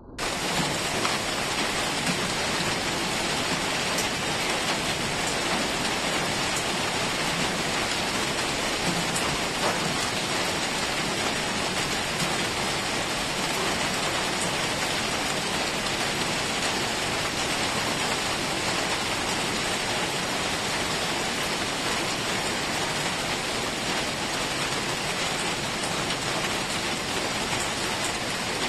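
Steady, dense rain falling and pattering on hard surfaces, with scattered drop ticks.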